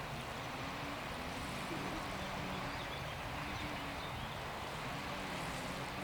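Boat motor running steadily, a low even drone over a hiss of water and wind.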